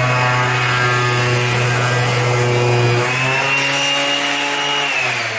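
Electric sander running on wood, its motor note stepping down a little about three seconds in and then starting to wind down with a falling whine near the end.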